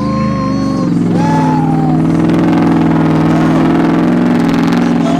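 Vehicle engine running steadily at raised revs, holding a constant note, with a brief higher tone over it in the first second.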